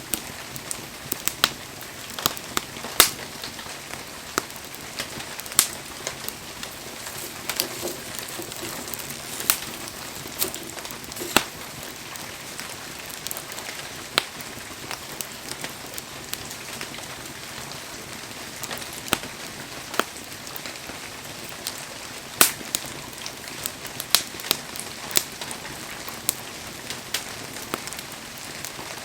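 Firewood burning in a campfire, crackling with irregular sharp pops over a steady hiss.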